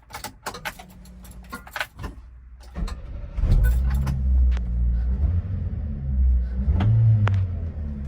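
A run of clicks and rattles, then the 660cc supercharged engine of a 1999 Subaru Sambar mini truck starts about three seconds in and settles into a steady idle.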